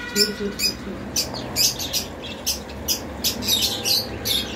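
Caged pet-shop birds chirping, short sharp high calls about three a second, over a low steady hum.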